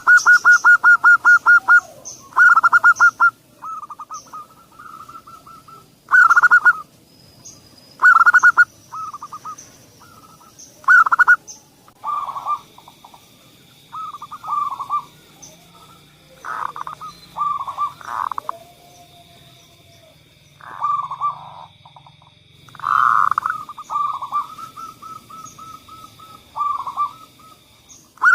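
Zebra doves (perkutut) cooing in bursts of rapid, evenly pulsed coos, some loud and some fainter, with short pauses between. Faint high chirps of other birds are behind them, and a faint steady high tone runs through the second half.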